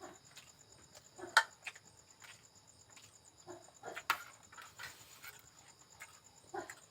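Scattered short clicks and wet smacks of someone chewing and eating, two of them louder about a second and a half and four seconds in, over a faint steady high-pitched trill.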